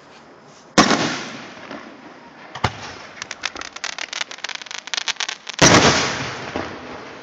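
Aerial fireworks in a grand finale. A loud shell burst about a second in dies away in a long rumble, then comes a sharp bang, a fast run of crackling pops, and a second big burst that fades out near the end.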